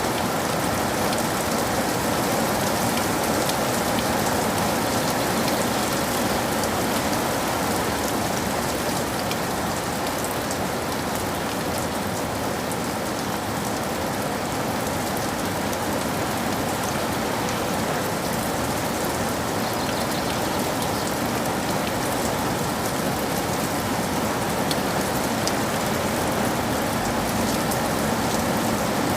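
Steady rain falling, an even hiss with scattered individual drop hits and no thunder.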